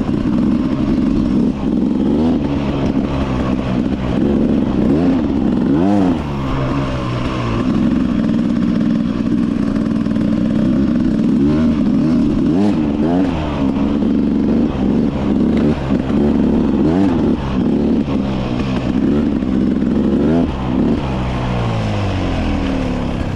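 Beta 300 RR two-stroke single-cylinder dirt bike engine being ridden, revving up and backing off again and again as the throttle is worked.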